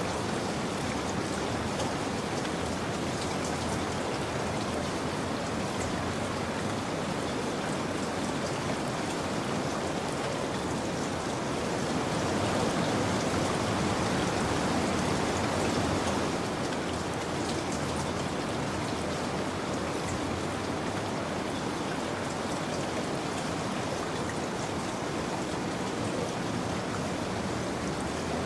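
Steady rain falling, an even, continuous patter that swells a little louder about halfway through.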